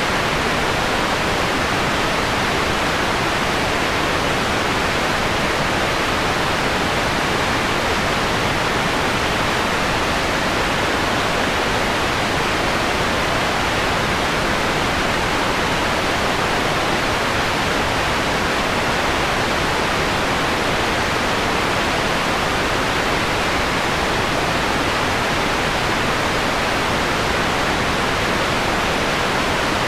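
Steady synthetic noise, filtered so the highs are rolled off: white noise dimmed toward a softer, mellower hiss.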